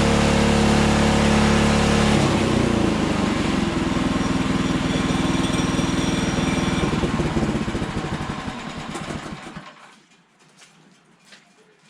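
Sawmill engine running steadily, then dropping about two seconds in to a slower, uneven chugging that dies away over the next several seconds as the mill is shut down. A few faint clicks follow.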